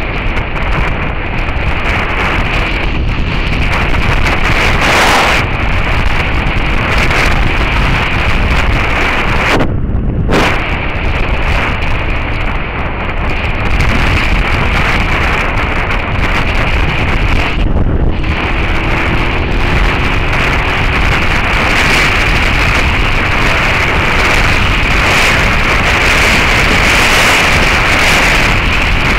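Loud, steady wind rush on the microphone of an action camera on a moving Suzuki SV650S motorcycle, largely drowning out the bike's V-twin engine. The wind noise dips briefly twice.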